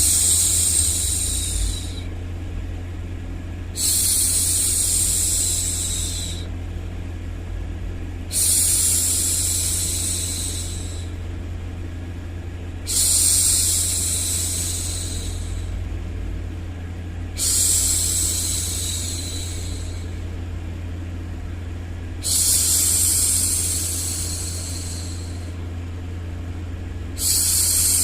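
A woman's voice shushing 'shhh' in long, fading hushes, about every four and a half seconds, seven times, over a steady low hum. It is the rhythmic hushing used to soothe a baby to sleep.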